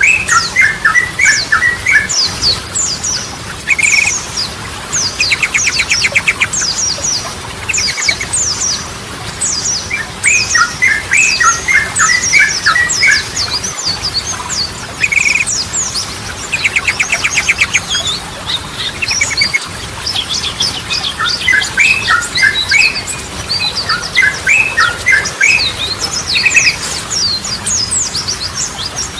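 Yellow-vented bulbul singing. Its bubbly phrases of short, quick notes repeat every few seconds, with a rapid trill now and then, over a steady run of high, thin chirps.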